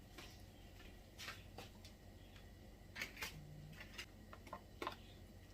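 Faint, scattered light clicks and taps of kitchen utensils and dishes being handled, with a short low hum about halfway through.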